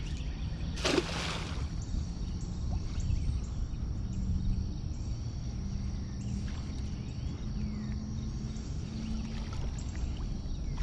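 A short splash about a second in, over a steady low rumble of wind and water.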